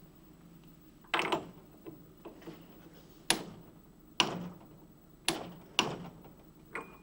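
Six sharp knocks and clinks of metal parts being handled, each ringing briefly, spaced irregularly about a second apart.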